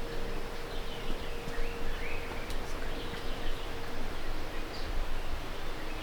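Outdoor ambience: scattered short bird chirps over a steady background hiss, with a faint steady hum in the first half.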